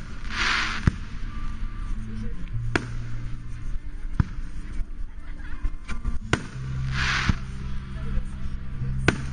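Aerial fireworks shells bursting, about six sharp bangs spaced a second or two apart, with a short hiss after the first bang and again about seven seconds in.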